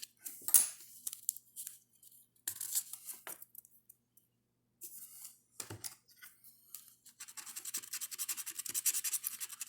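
Scratching the coating off an instant lottery scratch-off ticket: short scrapes with pauses between them, then rapid continuous scratching in the last few seconds.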